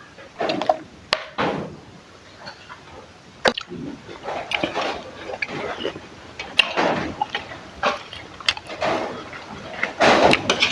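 Liquid being poured and sloshed in irregular swishes, with several sharp clicks of utensils or containers.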